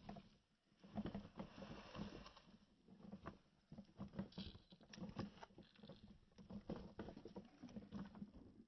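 Faint, irregular clattering and knocking, with a low rumble underneath.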